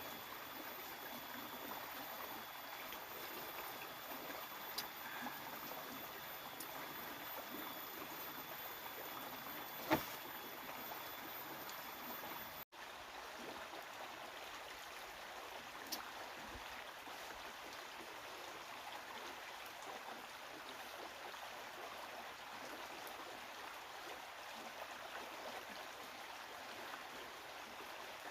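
Steady rush of flowing water, with a few sharp knocks, the loudest about ten seconds in.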